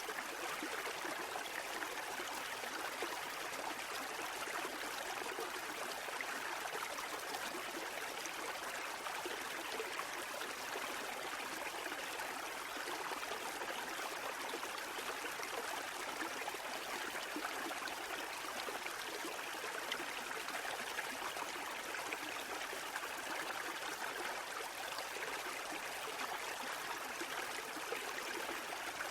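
Steady, unbroken water noise, a continuous trickling rush with no swells of breaking waves rising and falling.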